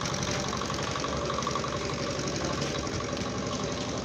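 A motor vehicle's engine running steadily, with a fast, even pulse.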